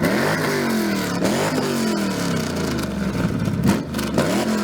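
Car engine revved through its exhaust in three blips. Each one is a quick rise in pitch followed by a slower fall: two close together, then another near the end.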